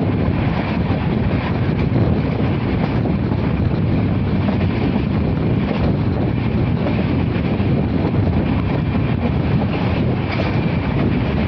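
Passenger train running on the rails, heard from on board: a steady, loud rumble of the coach and its wheels on the track, with wind buffeting the microphone.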